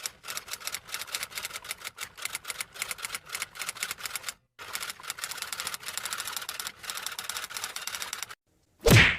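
Typewriter typing sound effect: rapid key clacks in two runs with a short break about four and a half seconds in, then one loud, short hit near the end.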